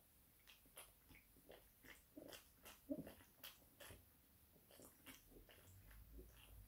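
Faint close-up mouth sounds of eating: irregular wet clicks and smacks of chewing, the loudest about three seconds in.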